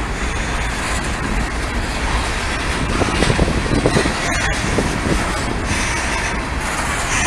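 Norfolk Southern freight train rolling past: a steady rumble of wheels on rail, with louder clattering about three to five seconds in.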